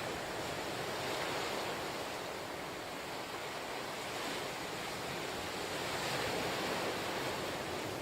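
Ocean waves washing ashore in a steady surf wash, swelling gently twice as waves break.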